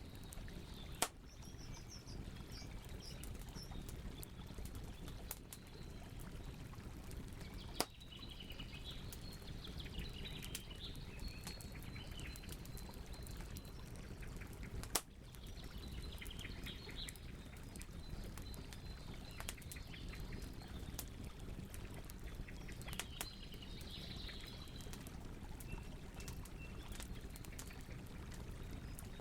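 Campfire burning with steady crackling and three sharp, loud pops about a second, eight seconds and fifteen seconds in. Birds chirp intermittently in the background.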